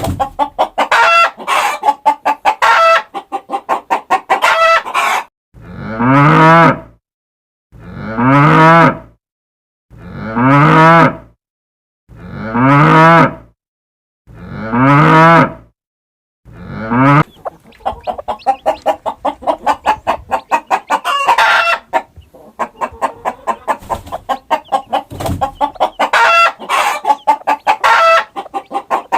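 Chickens clucking in quick runs, broken in the middle by five long, identical cow moos about two seconds apart, each rising in pitch, before the clucking resumes.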